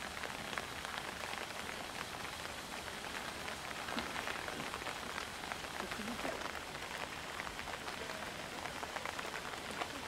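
Heavy rain pouring down steadily, a dense patter of drops hitting rock and water.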